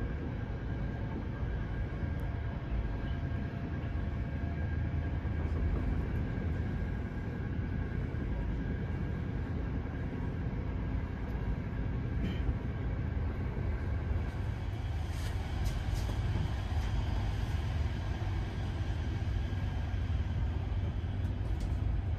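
Steady low rumble of a PKP Intercity passenger coach running on the rails, heard from inside the carriage, with a few faint clicks partway through.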